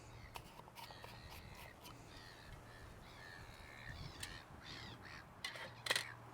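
Birds calling outdoors: a series of short harsh calls, followed near the end by a couple of sharp clicks.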